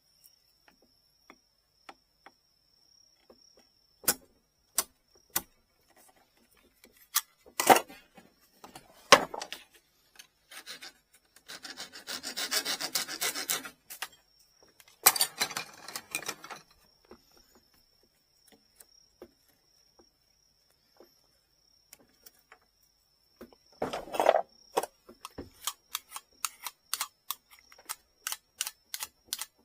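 Hand work on a bamboo fishing-rod tip: scattered clicks and taps of small parts and tools being handled, with two stretches of rubbing or rasping strokes around the middle, like filing or sanding, and a short cluster of knocks near the end.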